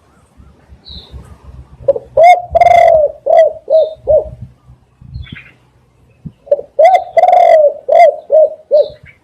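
Spotted dove cooing loudly: two phrases, each a long drawn-out coo followed by several shorter ones. Faint high chirps of small birds are heard between them.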